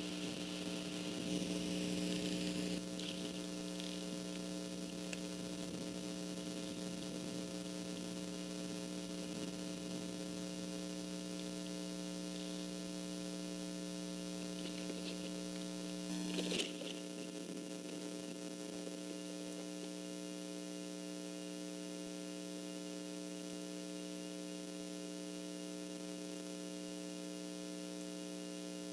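Steady electrical mains hum, several fixed tones at once, with a short rush of noise in the first few seconds and a single sharp click a little past halfway.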